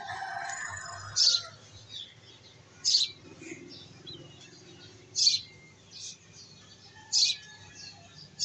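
A bird chirping repeatedly: one short, high call about every two seconds, loud above a quiet background.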